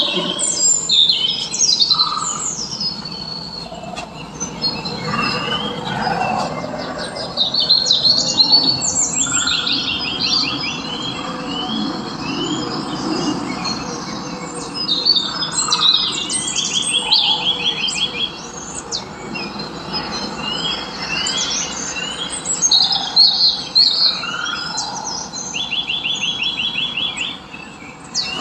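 Several birds chirping and singing together, with short, fast trills repeating every few seconds among the calls.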